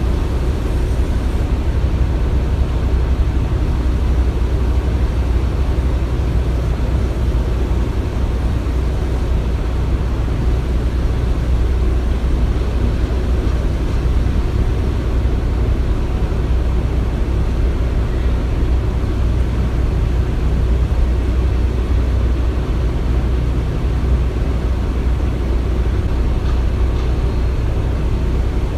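Construction-site ambience: a steady, deep machinery rumble with no distinct hits or knocks.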